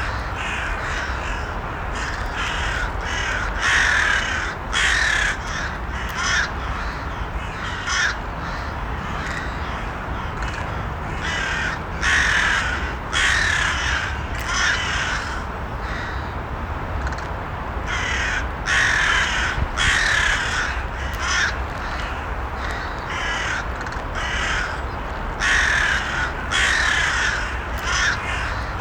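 Crows cawing: harsh caws coming in runs of several calls, with short pauses between the runs, over a steady low background rumble.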